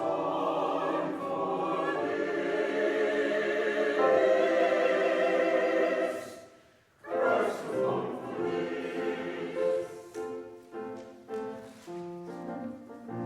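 Church chancel choir singing held chords that swell, then cut off about six seconds in. After a brief pause the music resumes with shorter, separated notes.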